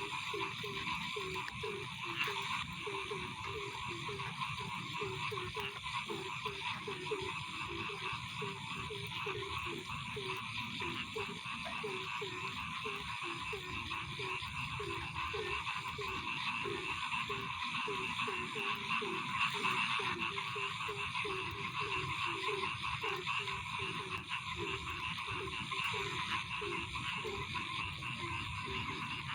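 Frogs croaking at night, short low calls repeating two or three times a second, over a steady high-pitched chorus.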